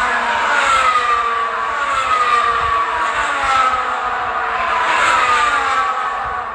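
Formula 1 cars' turbocharged V6 engines passing at speed one after another. Each high engine whine falls in pitch as the car goes by, with a new pass every second or two.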